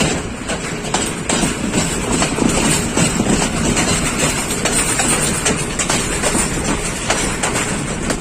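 Passenger train running along the track: a steady rumble with scattered sharp clicks and knocks from the wheels and carriages.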